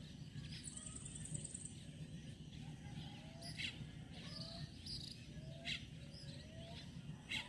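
Outdoor rural ambience with animal calls: a short rising chirp repeating roughly once a second, a few sharper high chirps, and a brief high pulsing insect trill about a second in, over a steady low rumble.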